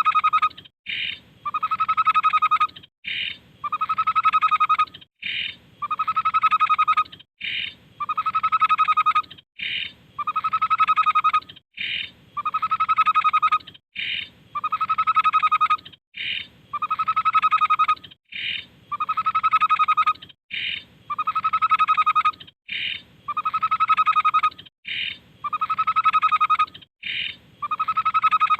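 Tepus babbler singing: a short high note and then a longer, rapidly trilled lower note, the phrase repeated in the same form about every two seconds.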